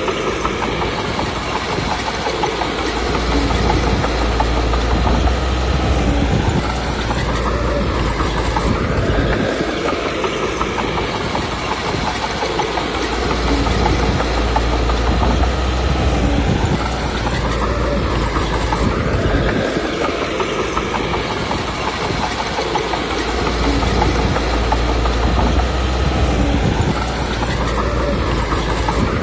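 Komatsu D21P crawler bulldozer working, its diesel engine running hard with the pitch rising and falling every few seconds as it pushes, over a steady clatter of the steel tracks.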